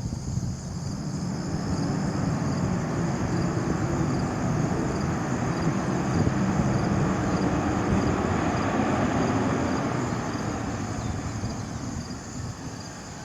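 Jet engine rumble of a Frontier Airbus A321 rolling out on the runway just after touchdown, swelling to a peak midway and then fading as it passes.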